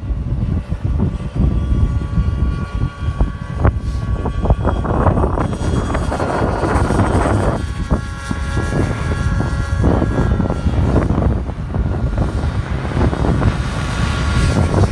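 Radio-controlled model airplane's motor and propeller whining in flight, its pitch shifting as the throttle and the plane's distance change. Strong wind buffets the microphone.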